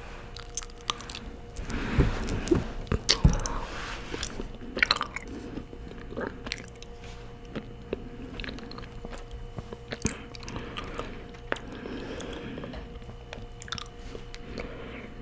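Honeycomb being bitten and chewed close to the microphone: wet, sticky mouth sounds with scattered crunches and clicks, busiest about two to three seconds in.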